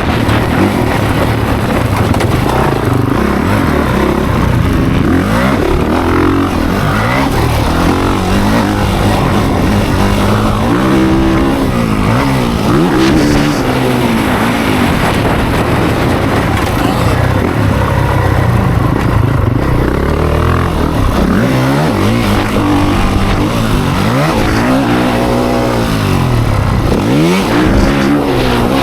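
Dirt bike engines on a motocross track, their pitch rising and falling again and again as the bikes accelerate and back off, with several engines overlapping.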